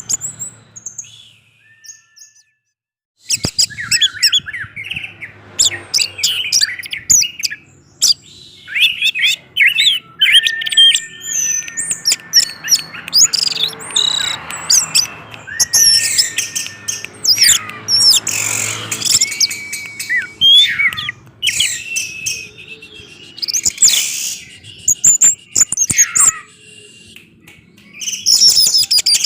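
Orange-headed thrush (anis merah) singing a long, varied run of whistles, chirps and sharp notes, after a brief pause near the start.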